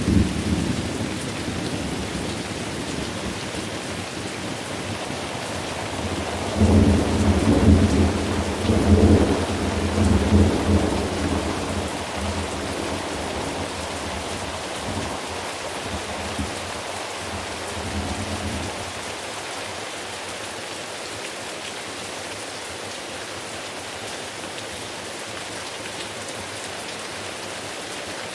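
Thunderstorm: steady rain with rolling thunder. A rumble fades out in the first seconds, then a louder peal comes in about six seconds in, rolls for several seconds and dies away by about nineteen seconds, leaving the rain alone.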